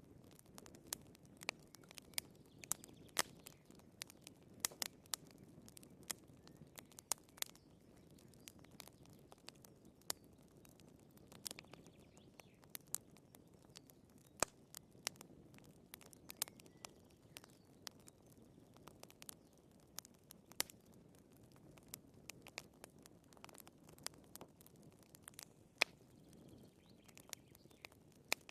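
Firewood burning in a fireplace, crackling: irregular sharp snaps and pops, a few a second at times, over a soft low rush of the flames.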